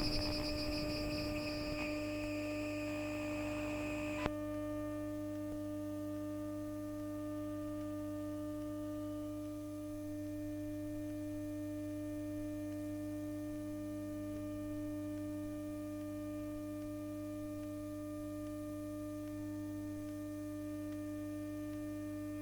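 Bombardier Flexity Outlook tram standing still with its MITRAC IGBT inverter equipment energised. A high whine cuts off with a click about four seconds in, leaving a steady electrical hum made of several held tones.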